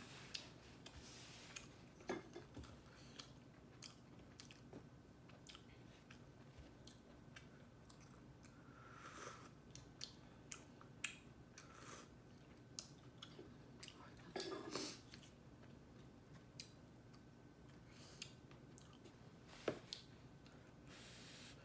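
Close-up eating sounds of instant noodles being slurped and chewed: scattered soft clicks and smacks with a few louder slurps.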